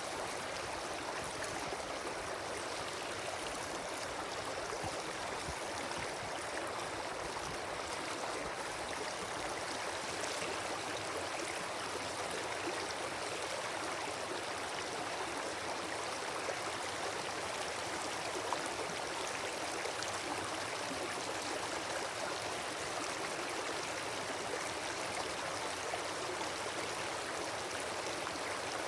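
Wood campfire burning with a steady hiss, flecked with small crackles and pops and one sharper pop about two-thirds of the way through.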